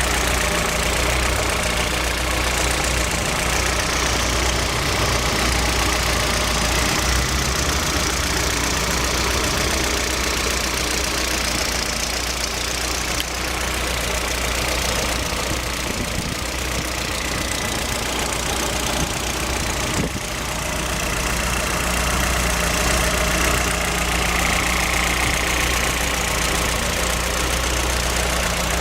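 Car engine idling steadily with a knock, which the owner puts down to the Brisk Silver spark plugs.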